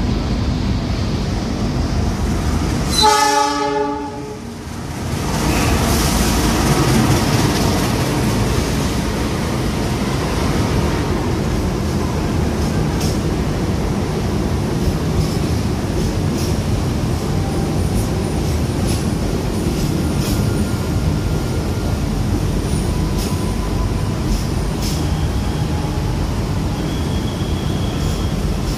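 Diesel locomotive horn sounds one short blast about three seconds in. Then a passenger train of stainless-steel coaches rolls past alongside the platform with a steady rumble and light wheel clicks, and a faint high squeal near the end.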